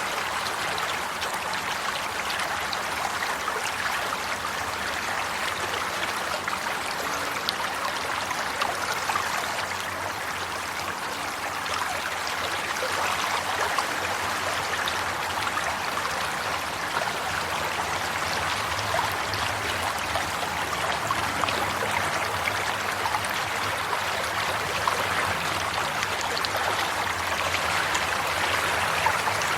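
Water running steadily in a stream, a continuous babbling and trickling.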